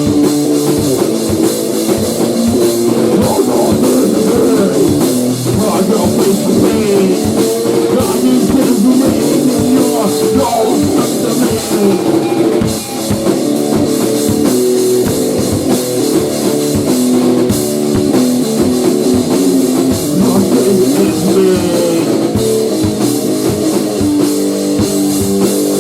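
Rock band playing a loud grunge/hardcore song: guitar over a driving drum kit beat, with no singing heard.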